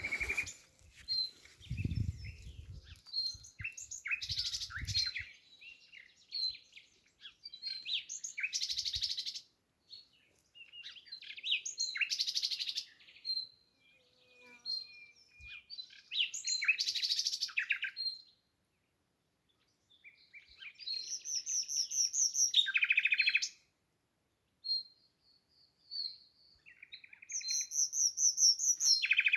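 Wild songbirds singing in a run of short phrases: high chirps, quick trills and repeated single notes, with brief pauses between phrases. A low rumble is heard briefly about two seconds in and again around five seconds.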